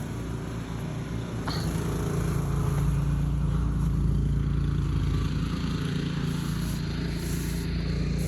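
An engine running steadily with a low hum, growing louder about two seconds in and then holding even.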